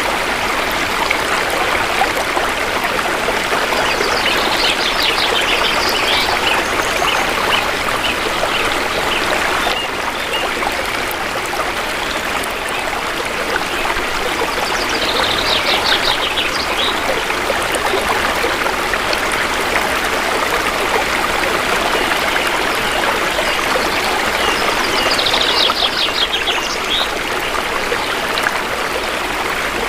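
Shallow river water flowing steadily. A bird's high, rapid trill comes three times, about ten seconds apart.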